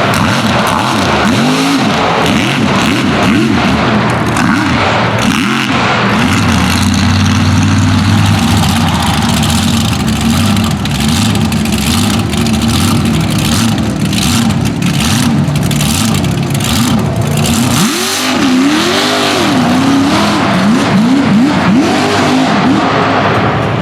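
Mega truck engine running at full throttle. It revs up and down in quick swings, holds high revs for a long stretch in the middle, drops briefly and then rises and falls again near the end, with scattered cracks over it.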